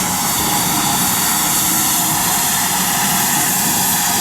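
Steam locomotive giving off a steady, loud hiss of steam, with a low rumble underneath.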